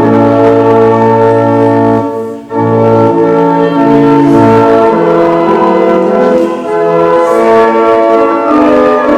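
Pipe organ playing slow, sustained chords that change every second or so, with a brief break about two and a half seconds in.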